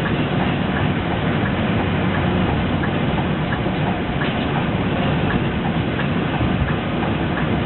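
Scania 340 coach under way, heard from inside: steady engine and road noise with light, scattered clicks and rattles from the bus body.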